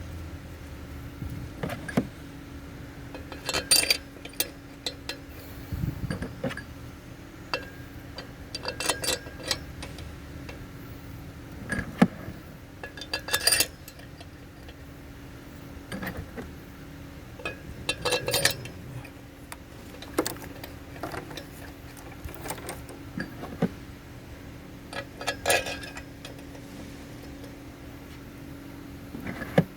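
Scattered metallic clinks and clatters of hand tools and engine parts being handled during cylinder head work, coming irregularly every second or few seconds over a steady low hum.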